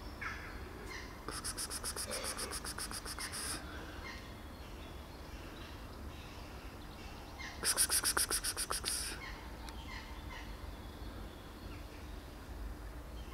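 A bird giving a rapid rattling chatter of harsh notes, about nine a second, twice: once for about two seconds early on and again, louder, about eight seconds in. Short high chirps come and go between the rattles over a low steady background hum.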